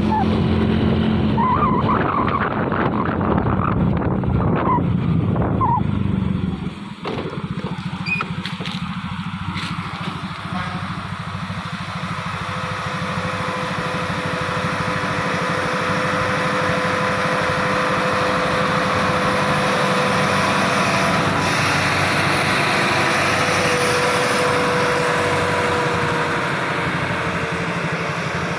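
Truck engine labouring on a steep climb. A loud low drone fills the first several seconds and drops off sharply about seven seconds in, then the engine builds again with a steady high-pitched whine over it.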